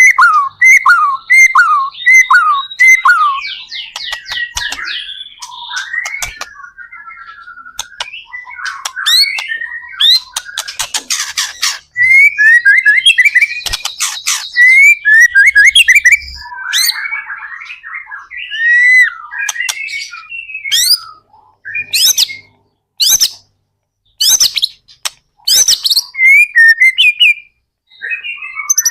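White-rumped shama in full song: a long, varied run of rich whistled phrases. It opens with a string of repeated falling notes, moves through fast trills and sliding whistles, and ends in shorter phrases broken by brief pauses.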